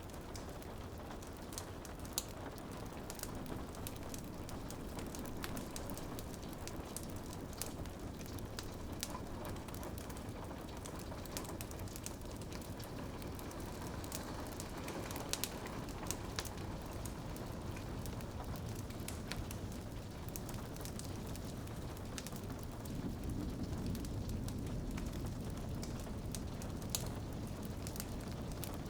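Steady rain on a window with a crackling wood fire: a constant low rush with scattered sharp pops and crackles, a few louder ones.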